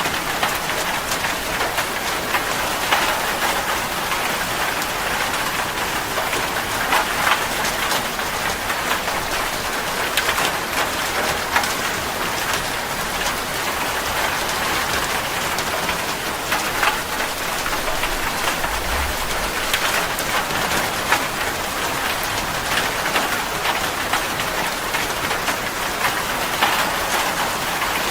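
Steady heavy rain falling on a surface, a dense even hiss with many individual drops pattering through it.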